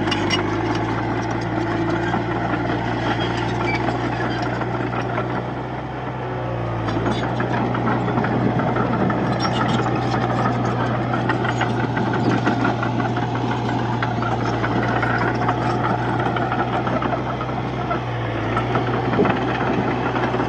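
Bulldozer diesel engine running steadily under load. Its note dips briefly about a third of the way in and again near the end.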